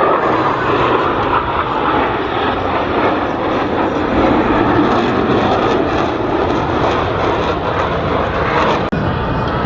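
Blue Angels F/A-18 jet engines, a loud steady roar that swells around the middle, with a short break near the end.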